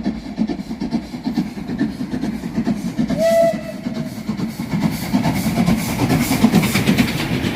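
Steam locomotive No. 131 working past, with a dense, pulsing rumble and a quick run of regular beats in the second half. A short whistle note sounds about three seconds in.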